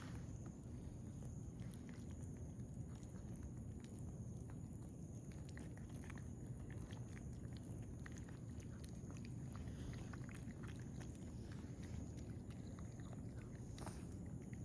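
Stray cats chewing wet cat food: faint, scattered small clicks and smacks over a steady low background noise.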